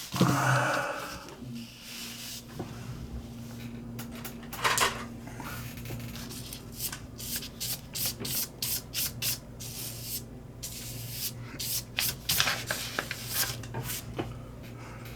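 Quick rubbing or sanding strokes, several a second, running from about six seconds in until near the end, over a steady low hum.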